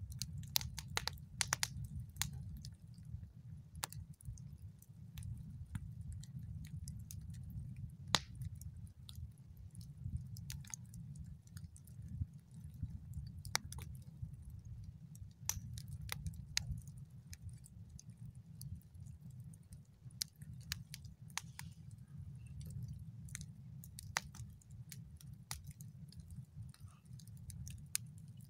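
Campfire of dry deadwood crackling, with irregular sharp pops and snaps over a steady low rumble.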